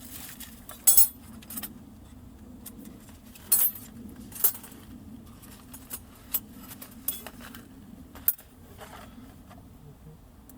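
Metal camping gear being handled: a run of light clinks and clatters, with sharp chinks that ring briefly, the loudest about a second in and twice more around three and a half to four and a half seconds in.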